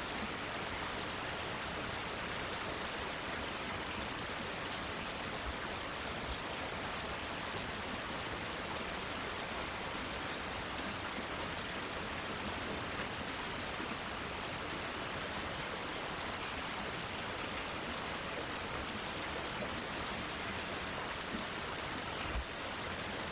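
Steady rain falling, an even hiss with scattered drop ticks. A single low knock sounds near the end.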